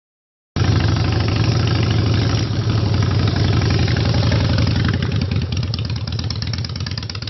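Motorcycle engine running with a deep, pulsing exhaust note, starting abruptly about half a second in and easing off slightly near the end.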